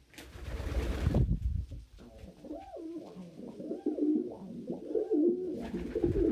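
Domestic pigeons cooing, a run of calls that each rise and fall in pitch, overlapping one another. A loud rustling burst in the first second or so comes before the cooing, and another comes near the end.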